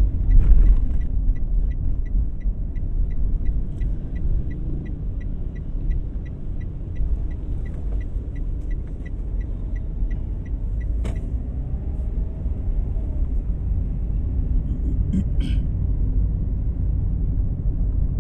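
Car running in city traffic, heard from inside the cabin as a steady low engine and road rumble. The turn-signal indicator ticks about three times a second and stops with a sharp click about eleven seconds in. A brief beep sounds around fifteen seconds.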